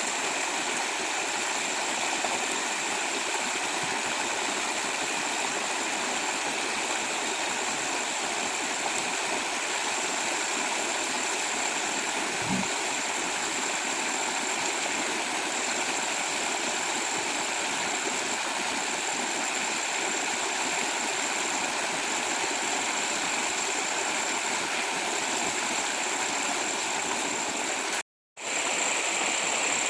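Steady rushing of a rainforest stream, with a high buzz above it breaking off and resuming every second or two. There is a single soft thump about halfway through, and the sound cuts out for a moment near the end.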